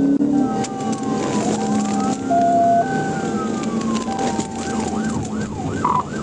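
Police car siren in a slow rising-and-falling wail that switches to a fast yelp, about three cycles a second, some four and a half seconds in, over vehicle running noise.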